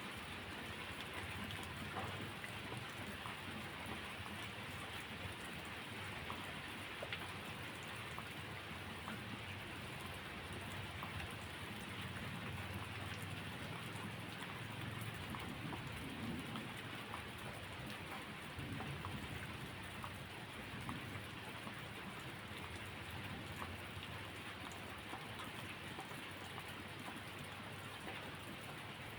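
Steady rainfall with many small scattered drop ticks, and a low rumble swelling through the middle of the stretch.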